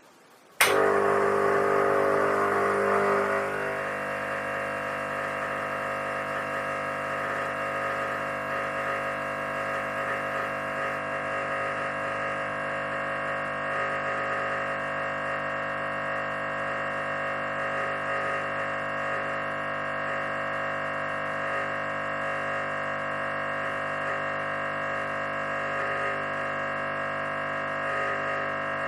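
Espresso machine pump switching on with a click and running steadily with a constant hum. It is louder for the first few seconds, then settles to a steady tone as pressure builds during the cleaning cycle.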